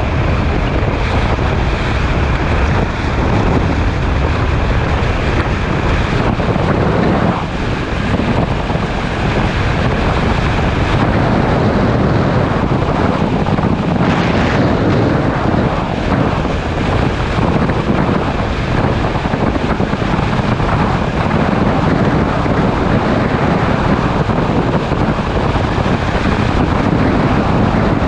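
Wind rushing over the camera microphone as a sport motorcycle rides at speed, with the engine running steadily underneath.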